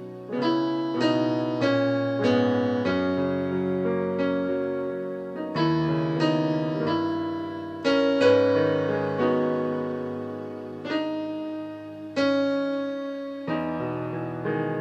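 Slow instrumental worship music on a piano or electric keyboard: sustained chords struck about once a second, each fading before the next.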